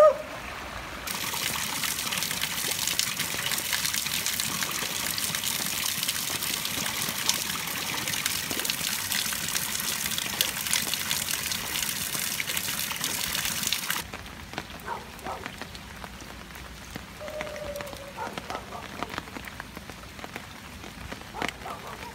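Heavy rain and running water, a loud steady hiss that cuts in about a second in and cuts off suddenly after about thirteen seconds. Lighter rain follows, with scattered drips and a few faint distant dog barks.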